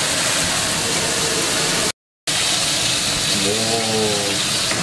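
Pork belly slices sizzling in a frying pan, a steady hiss, with the sound cut off briefly about two seconds in.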